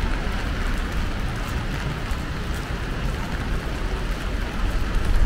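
Steady rain falling on a city street, with a constant low rumble underneath.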